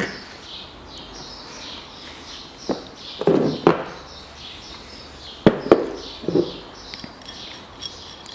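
Birds chirping over and over in the background, with a handful of knocks and clatters from parts being handled, loudest a little past the middle.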